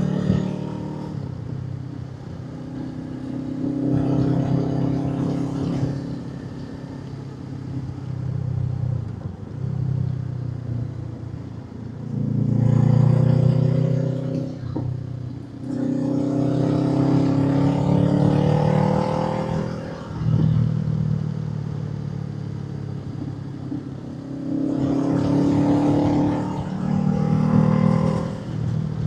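Honda 500 parallel-twin motorcycle engine on the move, pulling up in pitch through the gears in several surges and easing off between them. It has a recently fitted aftermarket exhaust.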